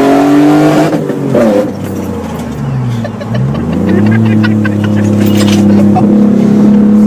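Supercharged V6 engine of a 1995 Nissan Pathfinder WD21 revving. Its pitch climbs in the first second, falls away with a dip around three seconds in, then climbs again and holds at high revs.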